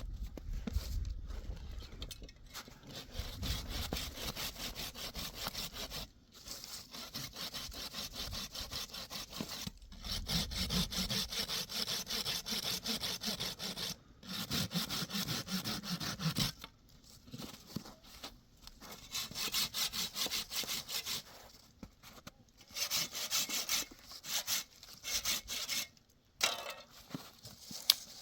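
Rapid rasping strokes, like a saw or rasp working on wood, in several runs of a few seconds each, broken by short pauses.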